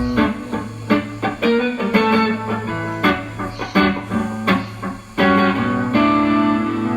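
Guitar music: picked notes ring out over a steady low drone, then sustained strummed chords take over about five seconds in, played live with a loop.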